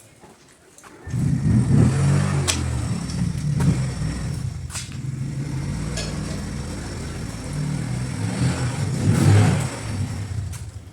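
An engine running steadily with a low hum. It comes in suddenly about a second in, swells briefly near the end and cuts off.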